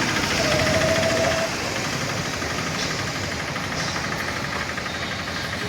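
An engine running steadily, with a short steady tone sounding for about a second near the start.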